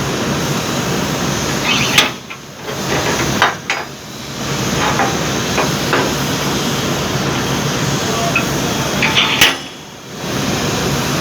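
Three loud, sharp knocks, like a hammer striking metal, over a steady rushing noise. The knocks come about two seconds in, a second and a half later, and near the end.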